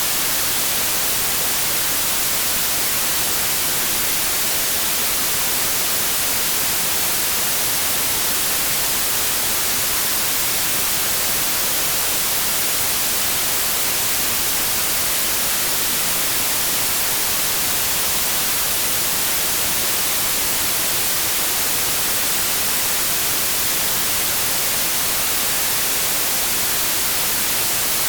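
Steady white noise: an even, unchanging hiss across all pitches, brightest in the highs, with no tones or events.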